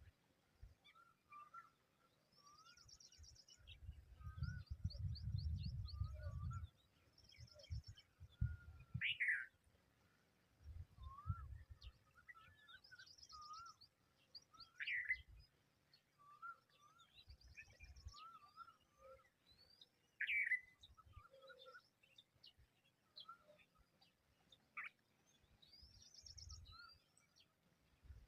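Birds chirping and calling: a short, high trill repeated every few seconds, loud quick down-sweeping calls and soft scattered chirps. A low rumble sits under them from about four to six and a half seconds in, and again briefly around eleven seconds.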